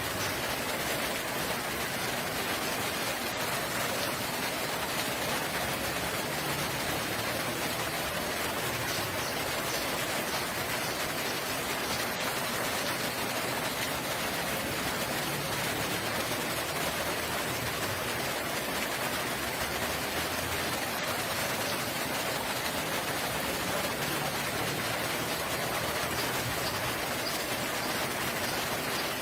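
Steady rain falling, an even continuous hiss of drops with no change in strength.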